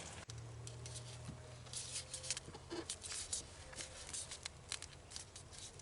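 Faint, irregular clicks and light scraping of a compression tester's hose fitting being handled and threaded into a spark plug hole. A steady low hum sits under it for the first two seconds or so.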